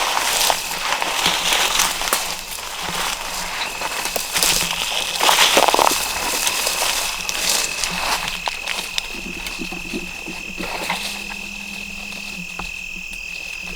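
Footsteps crunching and rustling through dry leaves and brush, in irregular bursts that thin out in the second half. A steady high insect trill, like a cricket, starts a few seconds in and carries on under them.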